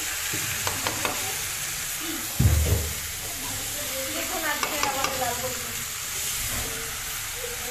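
Mixed vegetables sizzling in a large kadai while a metal spatula stirs and scrapes them, with a few sharp clicks of the spatula against the pan. A heavy thump comes about two and a half seconds in.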